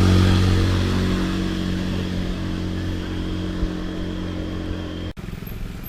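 A motor vehicle engine running at a steady pitch and slowly fading, cut off abruptly about five seconds in.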